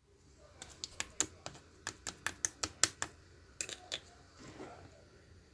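Slime being played with by hand, making a quick irregular run of sharp clicking pops, then a softer squish near the end.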